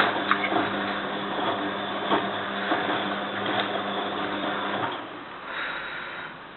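Bosch WFF2000 washing machine drum turning during the wash, its motor humming under scattered knocks and rustle from the load. About five seconds in the motor stops and the drum pauses between turns.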